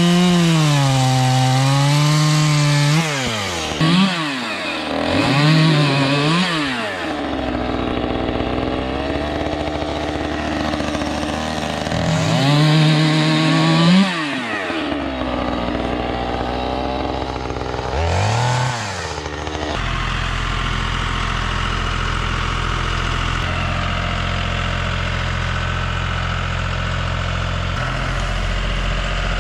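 Two-stroke chainsaw run at full throttle, its revs dropping and climbing again several times in the first two-thirds as it is throttled off and back on between cuts. A steady low engine idle runs underneath and is left alone for about the last ten seconds.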